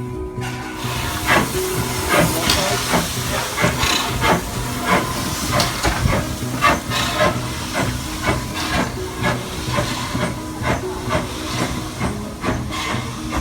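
Steam tank engine working hard, its exhaust beating about twice a second over a steady hiss of steam. Held notes of background music run underneath.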